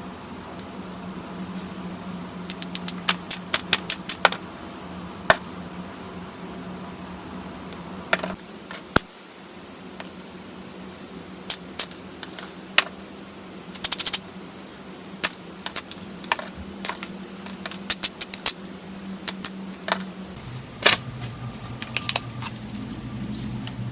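Flintknapping a small stone pebble into a bird point: irregular sharp clicks and snaps of stone flakes coming off, sometimes in quick runs. A low rumble comes in near the end.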